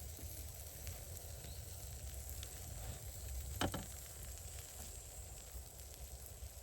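Food sizzling over an open campfire, with the fire crackling. One sharp pop stands out about three and a half seconds in.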